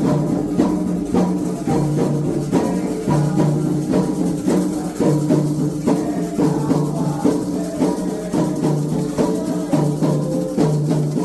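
Candomblé ritual music: drums and shaken rattles playing a steady, continuous beat over held pitched tones.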